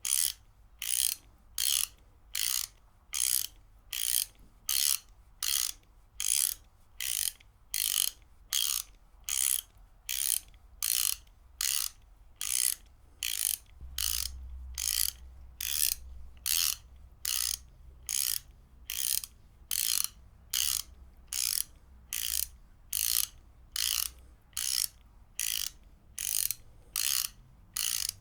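Ratchet wrench being worked back and forth: short bursts of rapid pawl clicks repeating at an even pace, a little faster than once a second.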